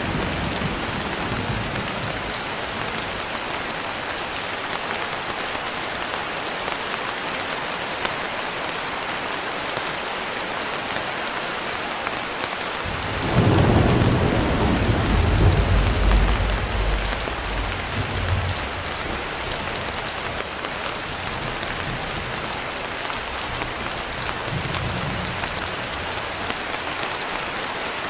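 Steady heavy rain hissing, with a roll of thunder about halfway through that rumbles low for several seconds and fades, and a fainter rumble a little later.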